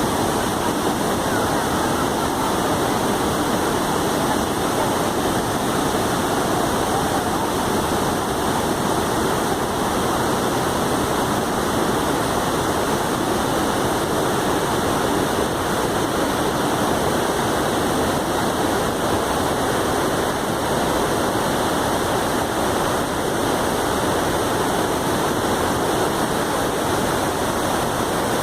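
Waterfall on a river: water pouring and splashing in a steady, unbroken rush.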